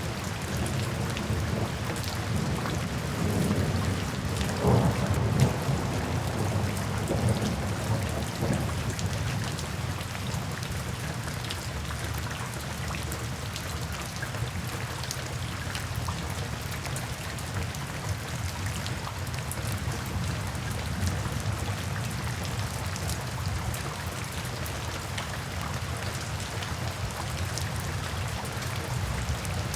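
Steady rain falling, with a low rumble of thunder that swells a few seconds in and then eases.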